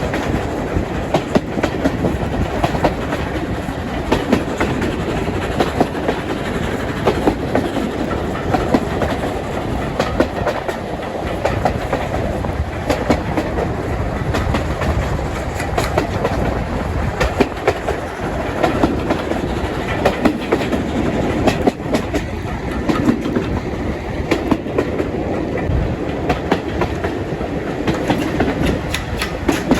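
A train's wheels running along the rails: a steady rumble with frequent sharp clicks, the clickety-clack of the wheels passing over rail joints.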